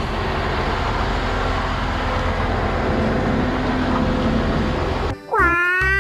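Concrete mixer truck's diesel engine running steadily as the truck rolls past, with road noise. About five seconds in, it cuts off and a children's song with singing starts.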